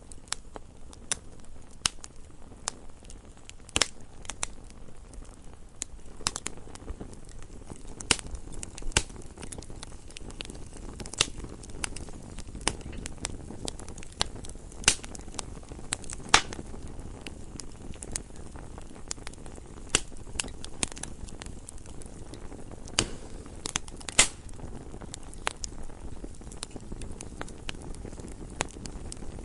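Campfire burning with irregular sharp crackles and pops over a low steady rumble of the flames.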